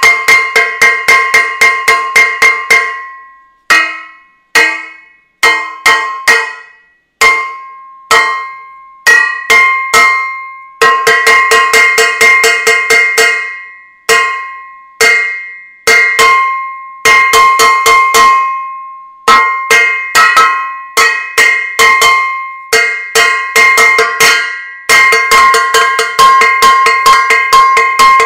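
A metal saucepan being banged over and over, each strike a ringing clang. The strikes come in irregular runs of several a second, broken by single blows left to ring out and fade.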